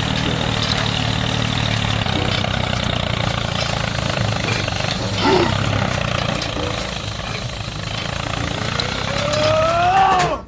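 An engine idling steadily, with a short rising call near the end.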